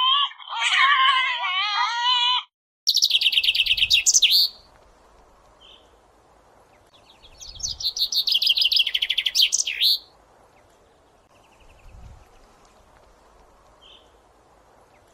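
A bird chirping in two bouts of rapid, high chirps, each lasting a second or two. Before it, for the first couple of seconds, a different high wavering call cuts off abruptly.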